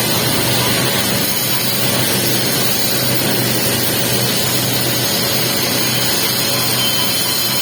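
Welding arc crackling steadily while the capping pass is run on a pipe joint.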